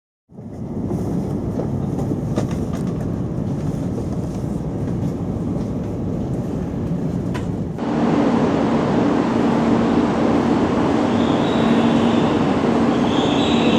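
Shinkansen train running at the station platform: a steady rumble of wheels and running gear. It steps up suddenly about eight seconds in, and from then on carries a steady low hum, with short high whines near the end.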